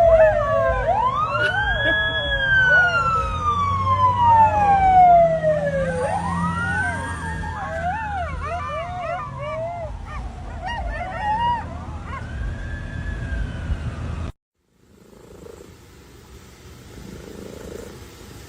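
Emergency vehicle siren in a slow wail, rising quickly and then falling over several seconds, about three times in a row, with other wavering tones mixed in. It cuts off suddenly near the end, leaving quieter sound.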